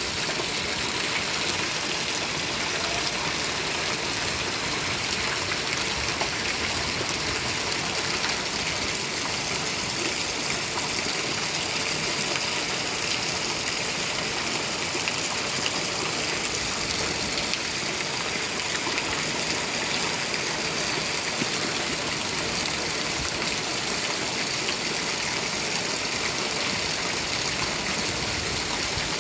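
Steady heavy rain, an even, unchanging hiss of falling water.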